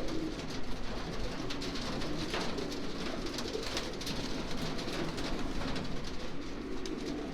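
Racing pigeons in a loft cooing continuously in low, overlapping murmurs, with scattered small clicks and rustles.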